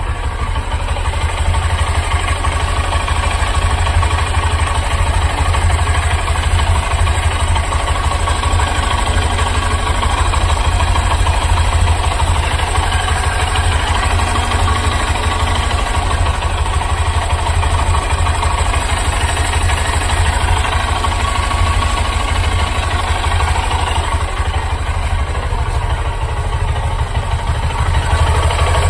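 Honda SP125's single-cylinder engine idling steadily, with a noise and vibration that the owner takes for a fault in the bike after only a month of use.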